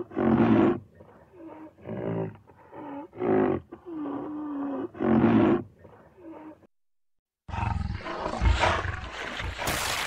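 Rhinoceros calling: about seven short, low calls with a wavering pitch over six seconds, the loudest at the start and about five seconds in. From about seven and a half seconds, a steady rushing noise with a few low thumps.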